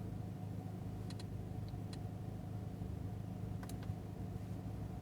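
Steady low hum inside a car cabin, with a few faint, sharp clicks from the infotainment controls as settings menus are scrolled: a pair about a second in, two more shortly after, and another pair past the middle.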